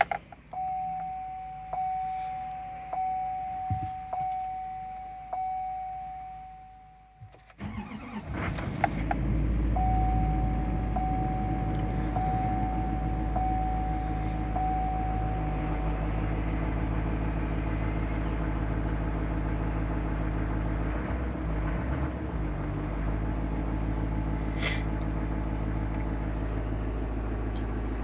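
A dashboard warning chime dings a little over once a second with the key on. About 8 seconds in, the 2012 Chevy Duramax 6.6 L V8 turbodiesel cranks briefly and fires on a cold start at about 30°F, then settles into a steady idle while the chime dings again for several seconds. A single sharp click comes near the end.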